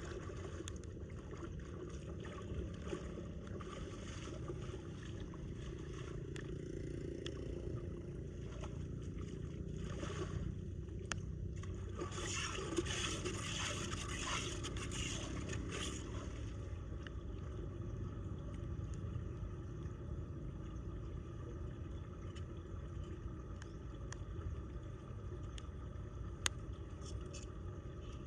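Floodwater draining down a storm drain, a steady low rush and rumble. A burst of scraping comes about twelve seconds in and lasts a few seconds, with a few sharp clicks scattered through.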